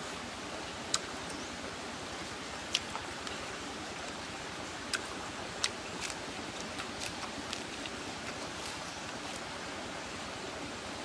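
Close-up eating sounds: a few sharp mouth clicks and smacks while chewing octopus, then a run of crisp crunches from biting into a fresh lettuce leaf from about halfway through. A steady hiss lies underneath.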